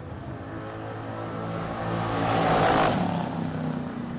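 Car with a 385-cubic-inch Gen II LT1 small-block V8 running, the sound building to a loud peak about two and a half seconds in and then easing off, as in a pass or a rev.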